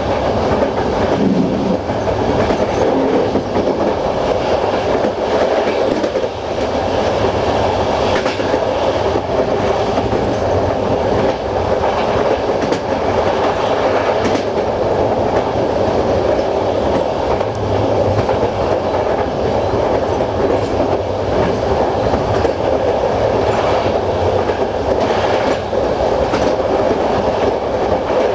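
Passenger coach of a Romanian InterRegio train running at speed, heard from inside the train: a steady rumble of wheels on rail with scattered clickety-clack from rail joints.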